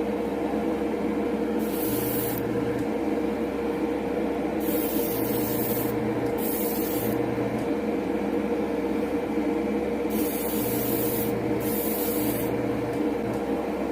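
Airbrush spraying Createx gloss black paint in about five short hissing bursts as the trigger is pulled and released, over a steady motor hum.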